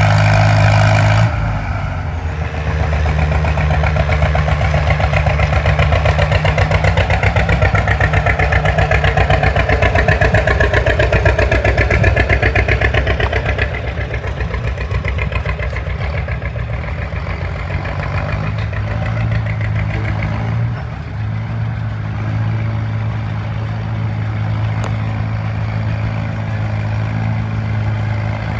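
Farmall M tractor engine working hard under load while pulling a sled. It runs loudest and strained for the first half, then settles to a lower, steadier run after about 14 seconds.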